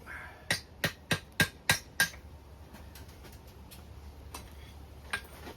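Hand hammer striking a hot chain link on an anvil, evening up the link's shape: six sharp blows at about three a second, followed by a lighter tap near the end.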